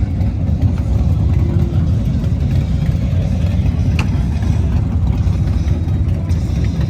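Steady low rumble with a single sharp click about four seconds in.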